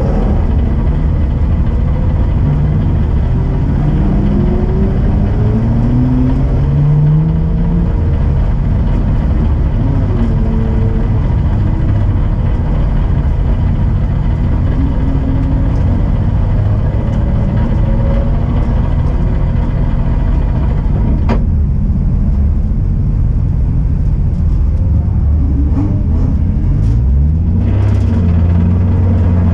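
2003 Nissan 350Z's 3.5-litre V6 idling steadily, with engine notes rising and falling over it. There is a single sharp click about 21 seconds in, and the revs climb near the end.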